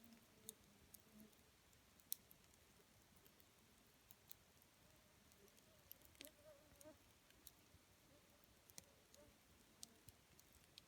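Wood campfire crackling faintly, with scattered sharp pops at irregular moments and a faint wavering hiss or whistle briefly around the middle.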